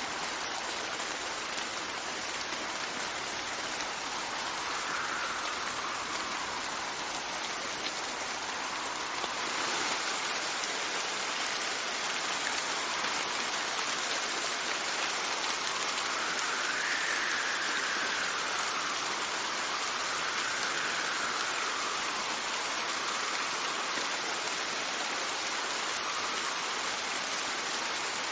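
Steady rain falling, with wind gusts that swell and fade as a rising-and-falling whistle several times.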